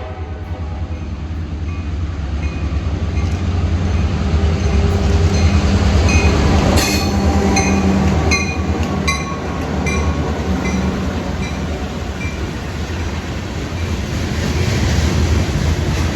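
A train going by: a heavy steady rumble of locomotive and rolling cars that swells and eases. Short high-pitched tones repeat through the middle, with a sharp noise about seven seconds in.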